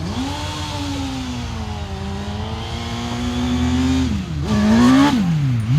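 Hillclimb competition car's engine held at high revs under hard acceleration, its note steady with small rises and falls. Near the end the revs drop sharply and climb again twice.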